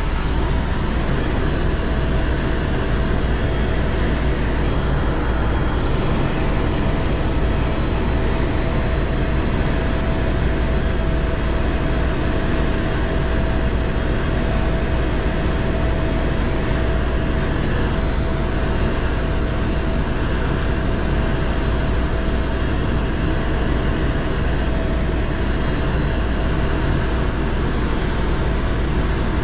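Helicopter in steady cruise: a constant, loud engine and rotor drone with a steady whine over it, heard from inside the cabin.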